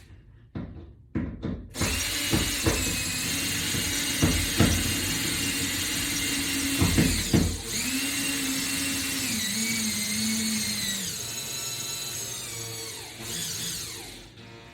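Power drill running in long pulls, its motor pitch shifting with speed and load, with a short break about halfway and slowing near the end. A few knocks of handling come just before it starts.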